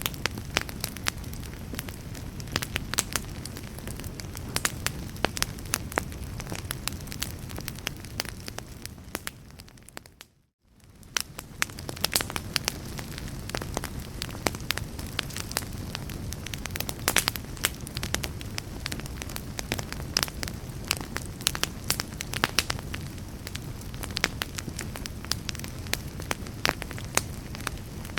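Burning fire crackling, with frequent sharp pops and snaps over a steady low rumble. About ten seconds in, the sound fades out to a moment of silence and then fades back in.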